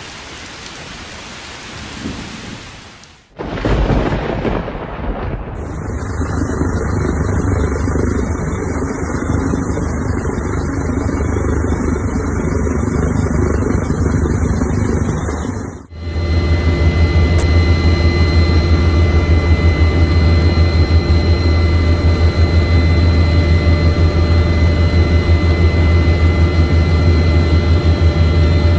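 Stormy weather: a loud rumbling and hissing noise like rain and wind, in a few abruptly cut stretches. The last half is a steady, loud low drone with faint steady tones above it.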